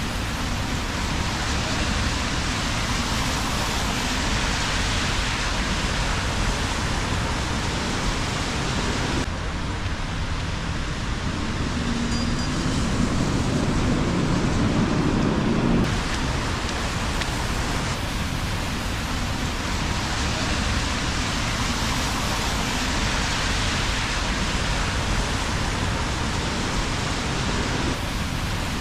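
Steady rain falling on a wet street, with traffic going by on the wet road. About a third of the way in, a deeper rumble holds for roughly six seconds, then stops suddenly.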